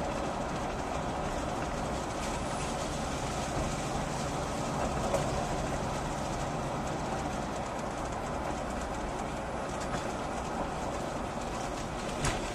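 Steady rumble of a moving vehicle, with a couple of sharp knocks near the end.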